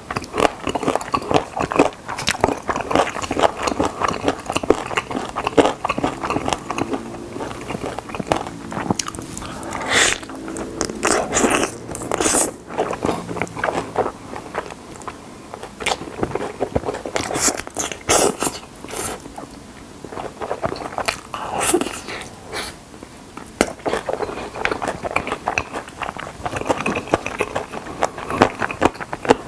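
Close-miked biting and chewing of chicken drumsticks: irregular crunches and small crackles of crispy coating between chews.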